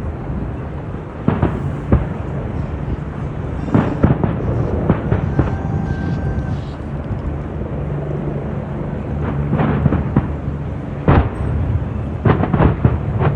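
New Year fireworks display going off: irregular sharp bangs over a continuous low rumble, with a quick cluster of bangs near the end.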